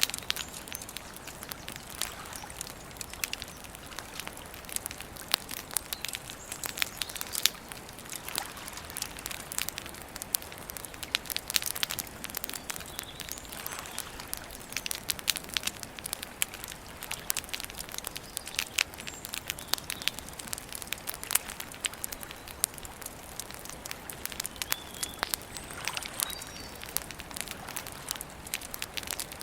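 Wood campfire crackling: a steady hiss of burning with frequent irregular sharp pops and snaps. A few faint, short bird calls come through near the middle and again near the end.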